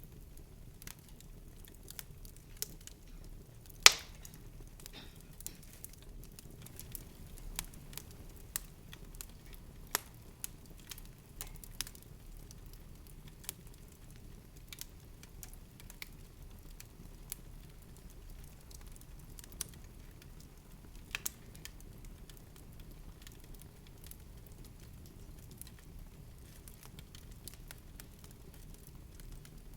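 Irregular crackling: scattered sharp clicks and pops, with one louder pop about four seconds in, over a faint steady low rumble.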